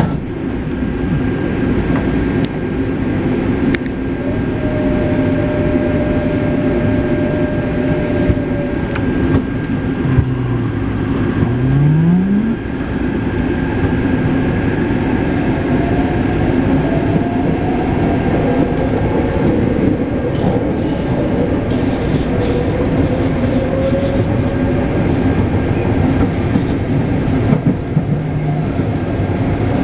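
Taipei Metro C381 train running, heard from on board: a steady rumble of wheels on track. About ten seconds in, a brief tone dips and then rises in pitch.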